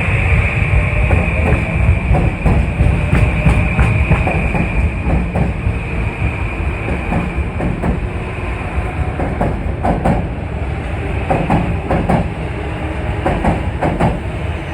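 Commuter train rolling along the track with a heavy rumble and a high steady whine that fades away over the first half. In the second half the wheels click irregularly over the rail joints.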